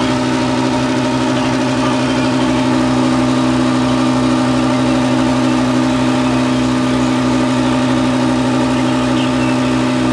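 Massey Ferguson 399 tractor's six-cylinder Perkins diesel engine running at steady revs, an even hum with a regular low throb.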